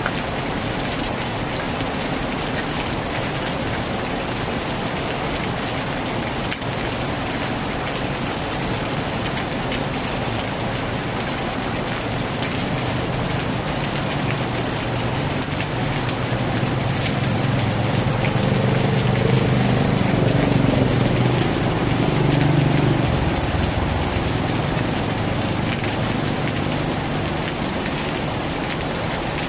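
Heavy rain falling steadily, with a motor vehicle's engine hum that rises about halfway through, is loudest a little after two-thirds of the way, and then drops away suddenly.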